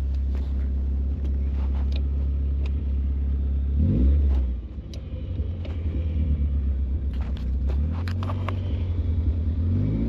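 Nissan 240SX's engine running steadily while the car is driven, a low rumble, with revs briefly rising about four seconds in and then easing off.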